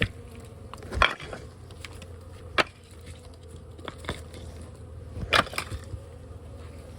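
Bees buzzing steadily around an opened hive in a brick wall. Sharp knocks sound about a second in, again at about two and a half seconds, and as a cluster at about five and a half seconds, the loudest at one second and five and a half seconds.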